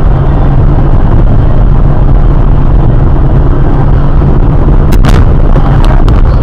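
Loud, distorted steady rumble of a car's engine and road noise picked up by a dashcam, with a few sharp knocks about five seconds in.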